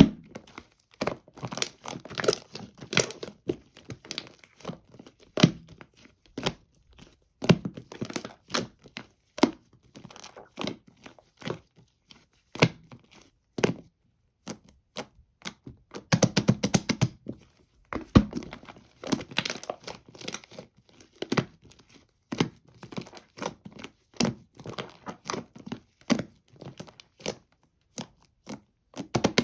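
Slime being squeezed, pressed and stretched by hand, giving irregular runs of sharp crackles and pops with short pauses between.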